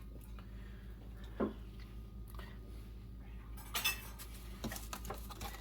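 Kitchen utensils and dishes clinking and clattering: a light knock about a second and a half in, then a cluster of clinks near four seconds, over a steady low hum.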